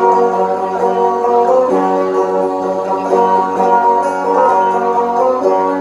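Plucked-string instrumental music playing a melody over a steady low drone note.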